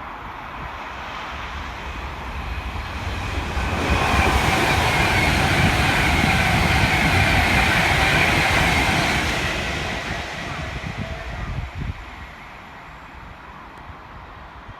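A train passing on the track, its wheel and rail noise building, loudest for about five seconds with a ringing hum, then fading away.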